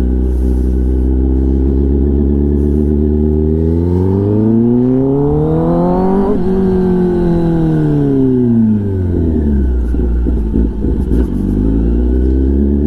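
Kawasaki ZX-10R's inline-four engine through an SC-Project aftermarket exhaust, running at a steady pitch, then rising smoothly to a peak about halfway through and falling back over about three seconds as the throttle is rolled off, before settling steady again.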